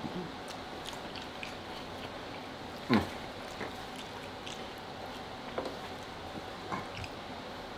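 Close-miked eating sounds: food being bitten and chewed, with scattered small clicks and smacks over a steady hiss. About three seconds in comes one brief, louder sound that falls sharply in pitch.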